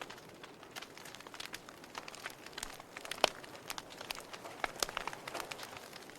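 Wood fire crackling in a fireplace: irregular small pops and snaps over a soft hiss, with one sharper pop about three seconds in.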